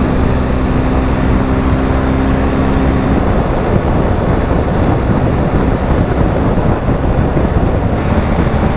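BMW R1250 GS Adventure's boxer-twin engine running under way, with wind rushing over the microphone. The steady engine hum fades into the wind and road rush after about three seconds.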